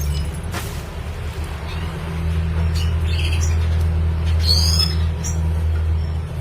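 Red siskin calling in short, scattered high chirps and twittering notes, with a couple of curved whistled notes about four and a half seconds in. A steady low hum runs underneath and is louder than the bird.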